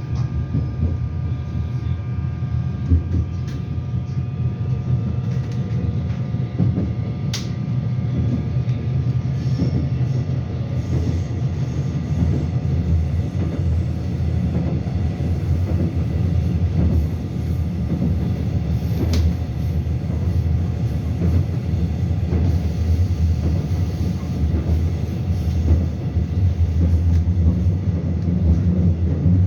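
Busan Metro Line 2 subway train running along the line: a steady low rumble of wheels on track, with a faint motor whine that fades in the first several seconds. Two sharp clicks, about 7 and 19 seconds in.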